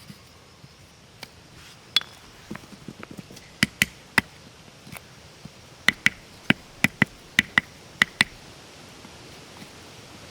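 An irregular run of about fourteen sharp knocks, each with a slight ring, coming closest together in the second half, like chopping or tapping with a blade or tool.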